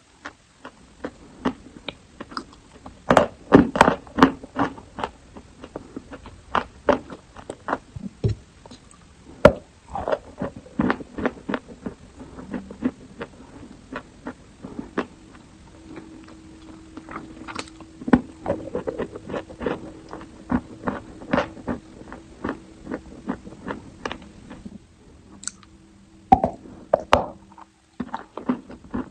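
Close-miked crunching and chewing of eating chalk: many sharp, irregular snaps and crunches as pieces are bitten and ground, with a faint steady hum underneath from about halfway in.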